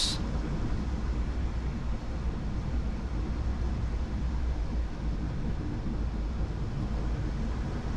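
Steady rush of airflow and engine noise in a Boeing 737 cockpit on final approach, with a deep constant rumble underneath.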